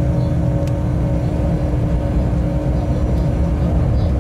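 Freight train running along the line at speed: a steady low rumble of wheels on rails with a constant hum over it.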